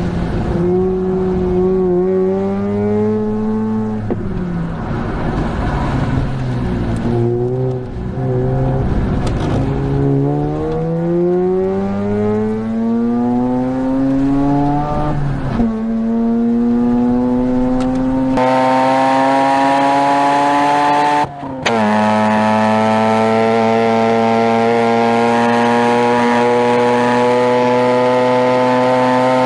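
Rotary engine exhaust under hard acceleration: the pitch climbs as the revs rise, drops sharply at a gear change about halfway through, then holds high and steady at high rpm with one brief dip near the end.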